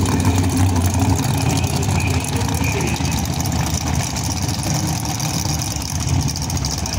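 Drag-racing car's engine idling with a steady low rumble.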